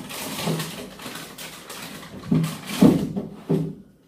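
A person eating close to the microphone: irregular chewing and mouth sounds, with a few short low voiced murmurs and a louder burst about three seconds in.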